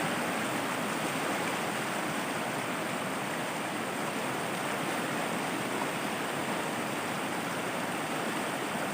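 Steady rushing of a rocky stream's rapids, water pouring over rock ledges.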